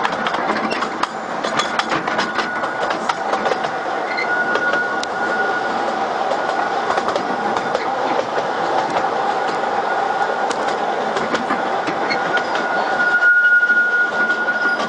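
Narrow-gauge mountain train heard from an open carriage: steady wheel-and-rail rumble with irregular clicking from the track joints, and a thin wheel squeal that comes and goes on the curves, longest and loudest near the end.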